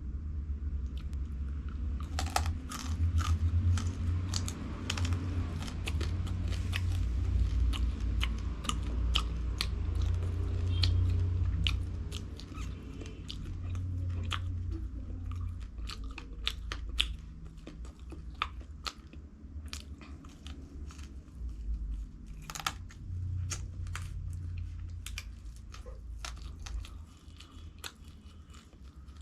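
Close-miked eating: crunchy food bitten and chewed with many sharp crunches over a low mouth rumble. The crunching is densest and loudest in the first half, then thins out and gets quieter.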